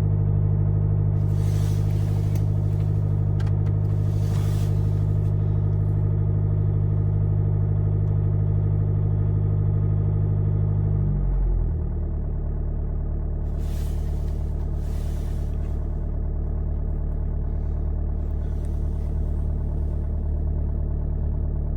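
Mercedes-Benz C220 CDI's four-cylinder diesel engine running at a raised cold idle; about halfway through, its pitch drops and it settles to a lower, steady idle. A few brief hissing noises come and go over it.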